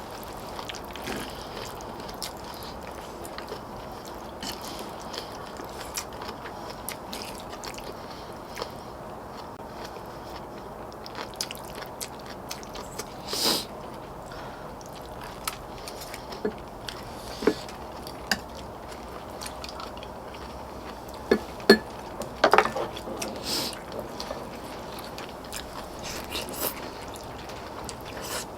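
People chewing and eating, with scattered light taps and clicks throughout and a few sharper clicks a little past the middle.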